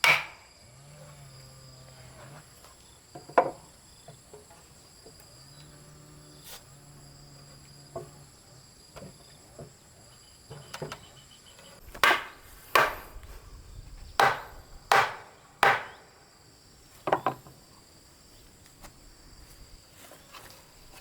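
Heavy hammer blows striking timber: a knock at the start and one about three seconds in, then a run of about six blows roughly a second apart in the second half. Insects trill steadily throughout.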